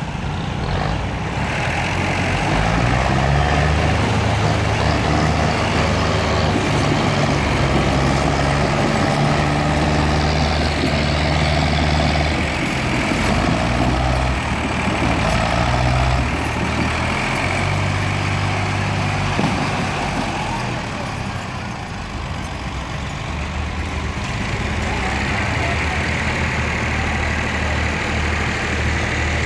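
Tractor diesel engine running under load, its revs rising and falling several times.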